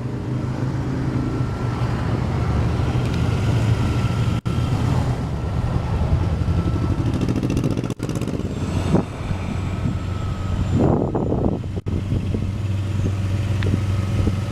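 1998 Lexus ES300's 3.0-litre V6 idling steadily, heard from outside the car, with three very brief dropouts.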